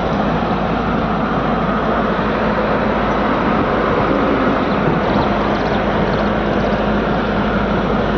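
Steady engine and road noise of a moving vehicle, heard as an even, unbroken noise with a low steady hum.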